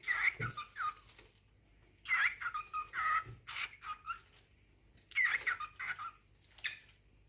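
Cockatiel chirping and warbling in three short bursts, each a quick run of rising and falling notes.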